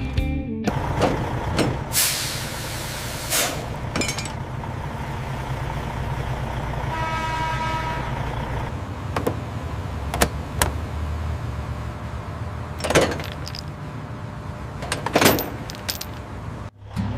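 Truck engine running steadily, with a hiss like an air brake about two seconds in, a short beeping tone near the middle and scattered sharp clicks.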